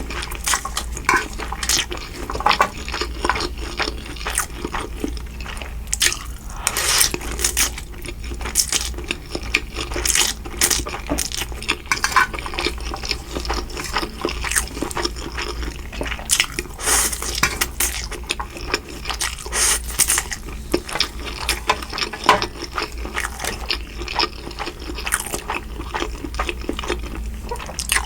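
Close-miked eating sounds of Mi Goreng noodles and fried shrimp: utensils clinking and scraping against the dish in a dense run of short, sharp clicks.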